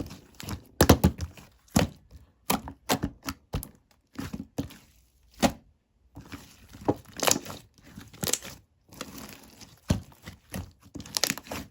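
Irregular crinkling and short knocks, as of something being handled or tapped, with brief gaps between them.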